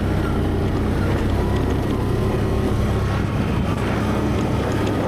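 ATV engine running steadily while riding, its low note easing slightly about two seconds in.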